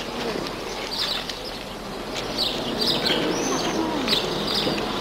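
Birds chirping in short, scattered high calls, one of them a brief arching whistle about three and a half seconds in, over a steady background of faint distant voices and street noise.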